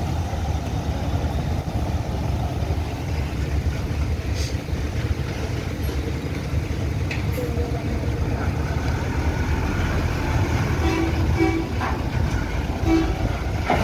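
Steady low rumble of bus and truck engines running, with a few faint short tones in the last few seconds.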